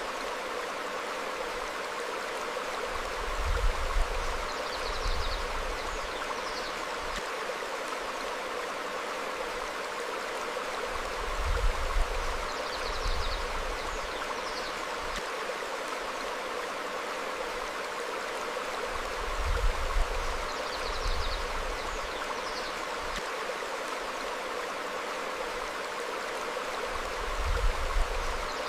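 Stream flowing over rocks, a steady rushing of water, with short faint bird chirps every few seconds. A low rumble swells about every eight seconds.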